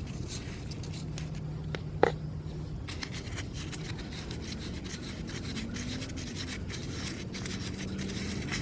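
An 8mm socket wrench working the screws out of a motorcycle oil filter cover: light scraping, rubbing and small irregular clicks of metal on metal, with one sharper metallic clink that rings briefly about two seconds in, over a low steady hum.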